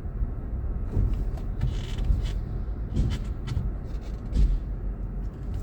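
Car driving, heard from inside the cabin: a steady low rumble of road and engine noise, with a few faint knocks.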